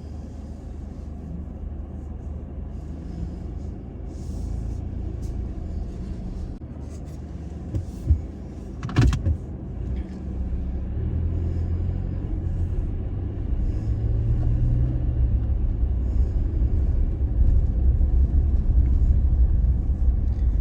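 Toyota Tacoma pickup driving slowly along a dirt trail: a steady low rumble of engine and tyres that grows louder toward the end. A couple of sharp knocks about eight and nine seconds in.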